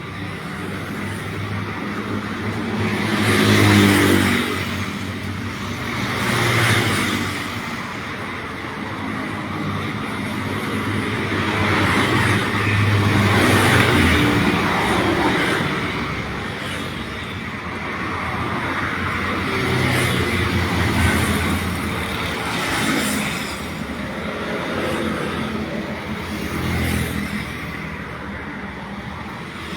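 Road traffic: motor vehicles passing one after another, each swelling and fading, over a steady low engine hum.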